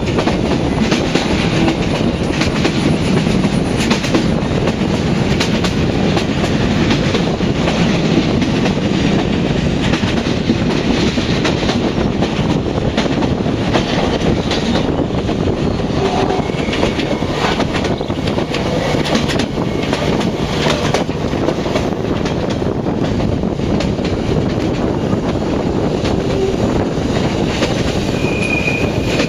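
Passenger train running along the track: a steady, loud rumble with wheels clicking over the rail joints.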